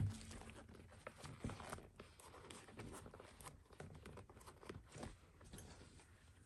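Leather baseball glove being handled while it is unlaced: quiet rustling, scraping and small clicks of leather and lace being worked, with a single knock right at the start.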